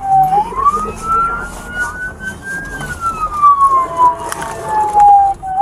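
Police car siren in wail mode: one slow cycle, rising for about two and a half seconds, then falling for about three, and starting to rise again at the very end.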